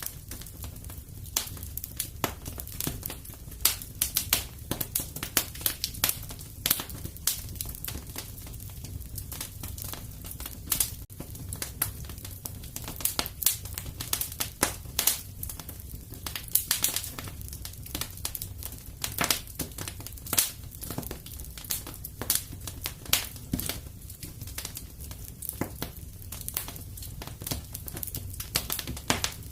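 Fireplace wood fire crackling: irregular sharp pops and snaps, some in quick clusters, over a steady low background from the flames.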